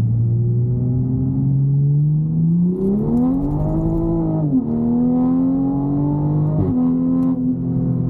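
Car engine accelerating through the gears: its pitch climbs steadily, drops sharply at an upshift about four and a half seconds in, climbs again and drops at a second shift near seven seconds.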